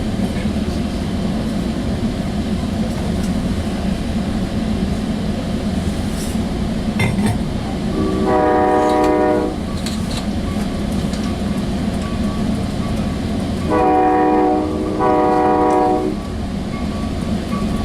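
Sounder commuter train's horn heard from inside a passenger car while the train runs with a steady rumble. The horn sounds once about eight seconds in, then twice in quick succession about fourteen seconds in.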